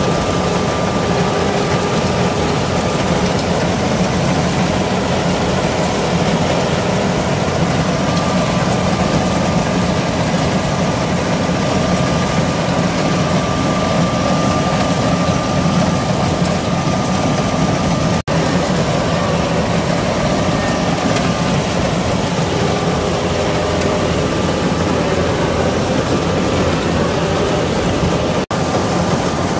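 Kubota rice combine harvester running steadily: a loud, even engine drone with a faint high steady whine over it. It breaks off for an instant twice, about two-thirds of the way in and near the end.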